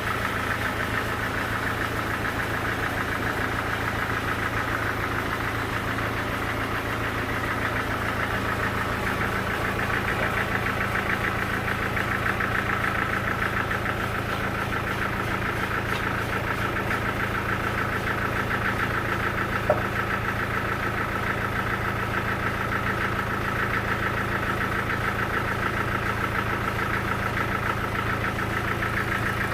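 Engine-driven sawmill machinery running steadily with a fast, even pulsing hum. A single sharp tick comes a little past the middle.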